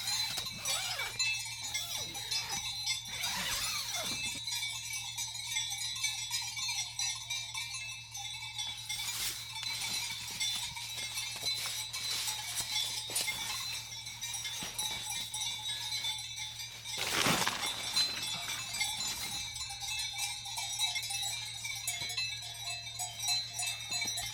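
Bells on grazing livestock clanking and ringing irregularly, many small strikes overlapping, with a steady low hum underneath.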